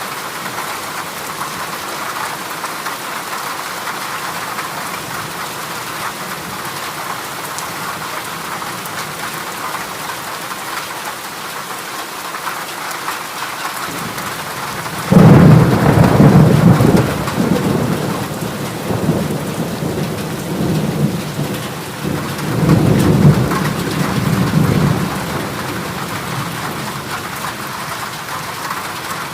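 Heavy rain drumming steadily on a corrugated zinc roof. About halfway through, a loud low roll of thunder lasts a few seconds, and a second one follows a few seconds later.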